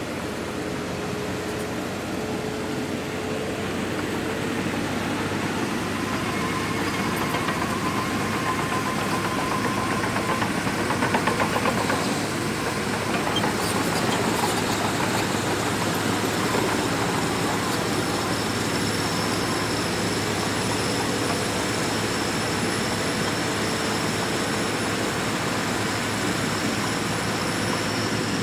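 Shantui DH17C2 bulldozer running steadily under work, a continuous diesel machine drone with held whining tones. It grows louder with some clatter about ten to twelve seconds in, and a high thin whine joins about halfway through.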